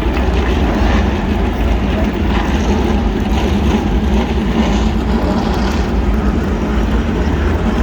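A field of NASCAR Cup Series stock cars' V8 engines running together, just fired up: a loud, steady rumble.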